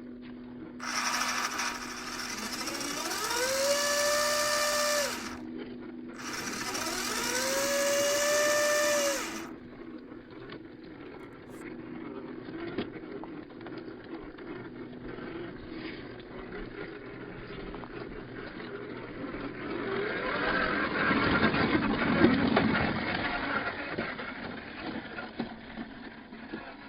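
Electric motor and gearbox of an MN82 RC Land Cruiser whining as it speeds up. The pitch rises, then holds steady, twice for a few seconds each. Later comes a longer, louder and rougher run.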